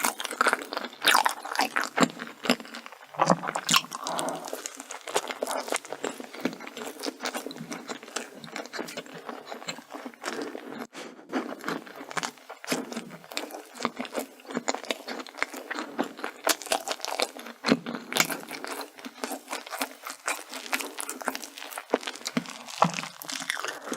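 Close-miked eating of chocolate desserts: continual crisp crunching bites and chewing, many small irregular crackles.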